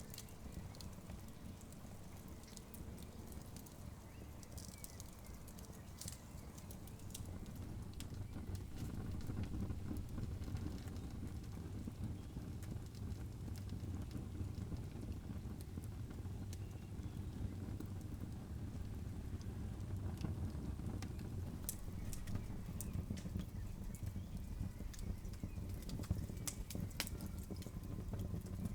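Campfire burning: scattered sharp crackles and pops over a low, steady rumble that grows louder about eight seconds in.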